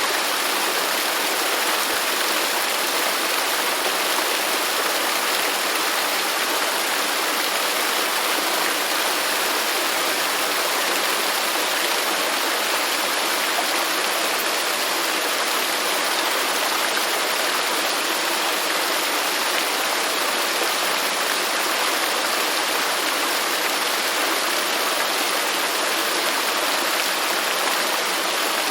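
Waterfall: a steady, unbroken rush of falling water, with most of its sound in the middle and high range and little low rumble.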